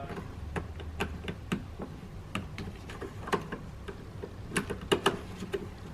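Irregular small clicks and taps from hands working the third brake light's wiring connector and plastic housing as the connector is plugged back in, with a few sharper clicks near the end.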